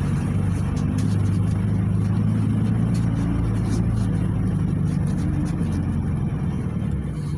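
PAZ 320402-05 city bus's diesel engine running steadily, heard from inside the cabin, with a low engine note and faint light rattles.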